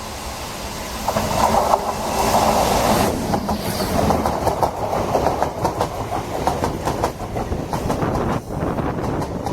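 A train running past close by, growing louder over the first second or so. From about three seconds in, its wheels clatter steadily over the rail joints.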